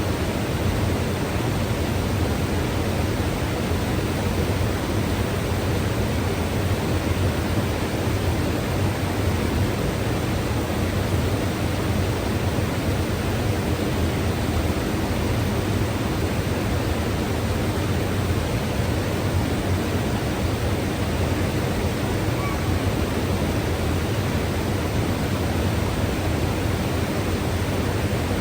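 Mountain river rushing steadily over rocks, a dense even roar of water with no breaks or distinct splashes.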